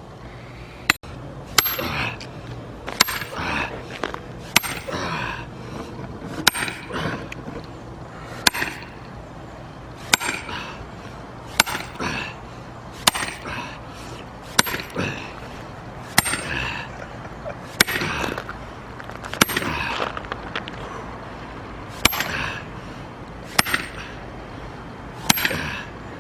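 Repeated blows of an axe into a firewood log, about sixteen sharp cracks spaced a second or two apart, each with a brief metallic ring; the log is a tough one that has not yet split.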